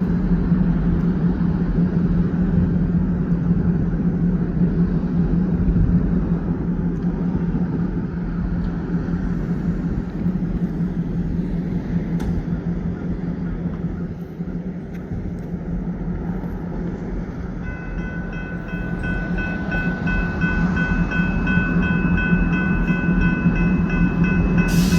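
Diesel-powered passenger train pulling out: a steady low engine drone with rail and wheel rumble. About three-quarters of the way through, steady high-pitched tones join in.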